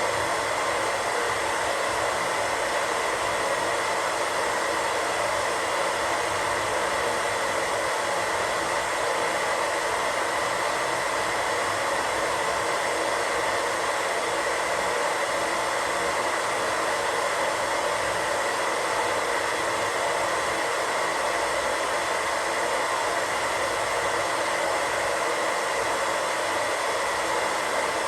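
Untuned radio static: a steady, unchanging hiss.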